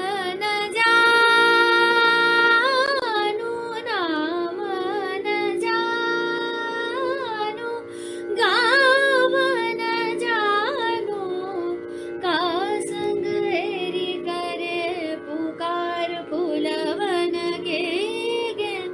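A woman singing a Hindustani classical raga, holding long notes and sliding between pitches in ornamented turns, over a steady drone.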